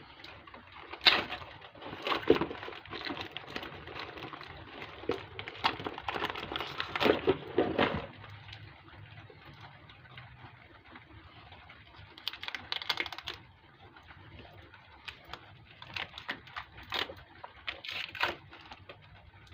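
Handling noises from a motorcycle luggage rack and its packaging: a run of sharp clicks and knocks for the first several seconds, a brief rustle partway through, then more scattered clicks near the end.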